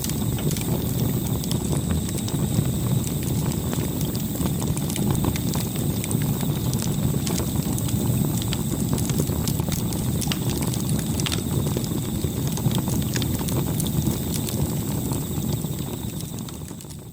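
Campfire burning with a steady low rumble and frequent sharp wood crackles and pops, fading out near the end.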